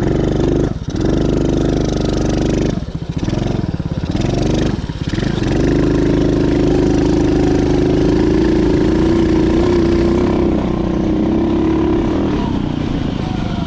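Dirt bike engine running under throttle. It drops off briefly three times in the first five seconds, then holds a steady high pitch and eases off a little about eleven seconds in.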